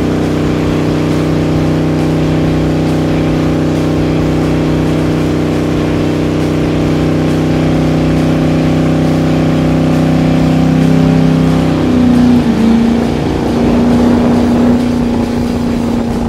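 Big-block V8 of a 1966 Plymouth Belvedere held at high revs during a burnout, rear tires spinning in place. The engine note holds steady, wavers and dips about twelve seconds in, then holds steady again.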